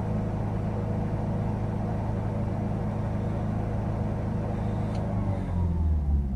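Ford Focus 1.6 TDCi diesel engine held at a steady fast idle of about 3000 rpm, heard from inside the cabin. About five seconds in the revs fall away as the accelerator is released.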